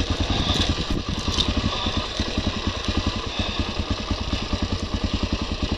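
Motorcycle engine idling with an even, rapid pulse that stays steady.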